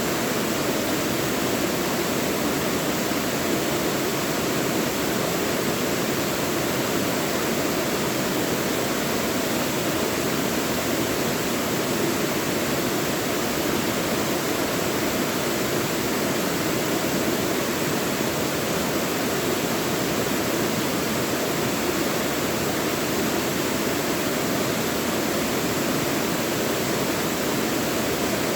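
Mountain stream rushing and splashing over rocks in a steady, unbroken wash of water noise.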